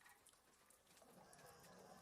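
Faint, soft snoring breath of a sleeping border collie, rising about a second in, with a few light ticks of rain before it.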